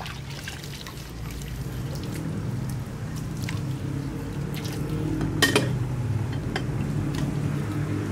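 Dishes being washed by hand in basins of water: water dripping and sloshing as a plate is scrubbed, with scattered clinks, the loudest about five and a half seconds in. A steady low rumble runs underneath.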